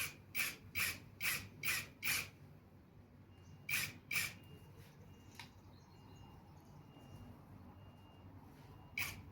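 A bolt being tightened by hand into a motorcycle handlebar end, heard as a run of short rasping strokes, about two and a half a second. They stop about two seconds in, two more come a couple of seconds later, and another comes near the end.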